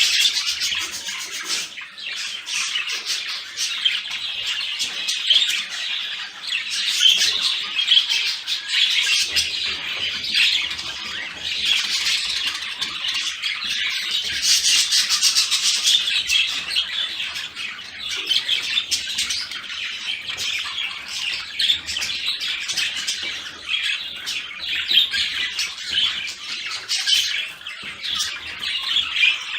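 Budgerigars chattering and warbling without a break, a dense run of short chirps and squawks.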